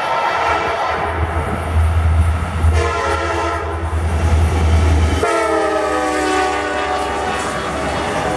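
Diesel freight locomotive passing at speed with its horn sounding several blasts over a heavy low engine rumble. The last, longest blast slides down in pitch as the locomotive goes by, and the engine rumble drops away with it, leaving the rolling noise of the cars.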